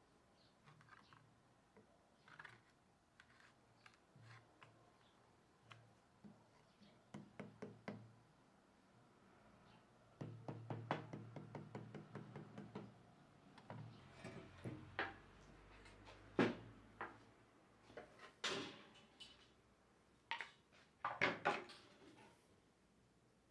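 Irregular light knocks, taps and clicks, with a quick run of rattling ticks a little before halfway and a few sharper knocks in the second half.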